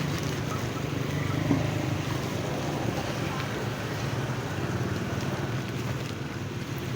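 Small engine running steadily, with wind noise on the microphone.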